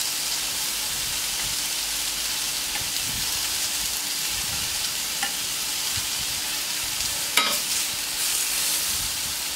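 Diced celery and mushrooms frying on a hard-chrome steel gas plancha: a steady sizzle, with the spatula scraping and tapping the plate as the pieces are turned, one sharper scrape about seven seconds in.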